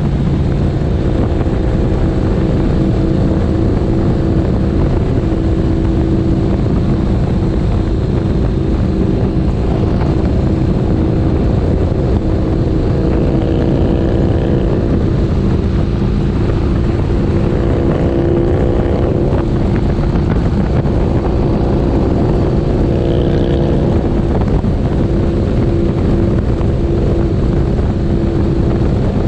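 Motorcycle engine running at a steady cruising pitch, with wind rushing over the microphone.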